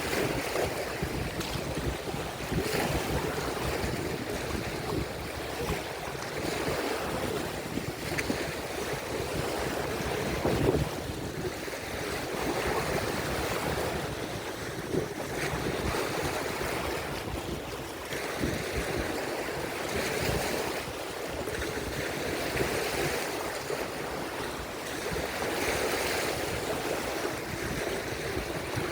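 Lake waves breaking and washing onto the shore, swelling and ebbing every few seconds, with wind buffeting the microphone.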